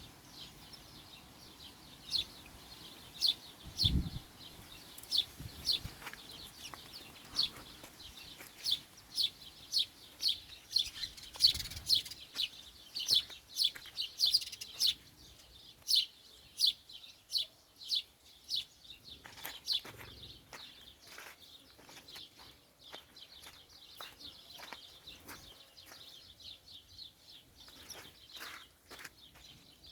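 A small bird chirping over and over, short high calls about one or two a second, growing fainter after about twenty seconds. A single low thump about four seconds in.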